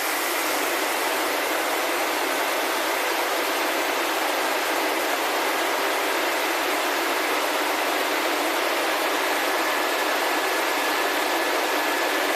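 1969 VW 1300 Beetle's air-cooled flat-four engine running steadily, heard as an even rush of noise. It has just been restarted after 14 years, with the carburettor and distributor not yet fine-tuned.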